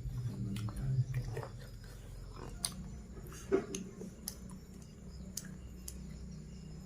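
Close-up chewing with scattered small clicks and smacks as a person eats chicken, over a steady low hum.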